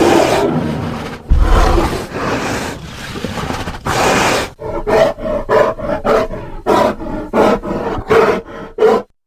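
Grizzly bear roaring: a few long, rough roars, then a quick run of short, sharp calls, about two a second, which stop suddenly near the end.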